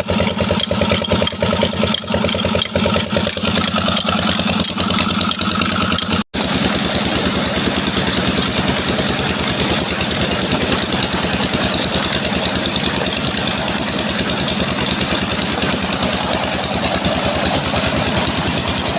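Petter diesel engine of a tube-well pumping set running steadily with a fast, even firing beat. The sound drops out for a moment about six seconds in, then the same steady running carries on.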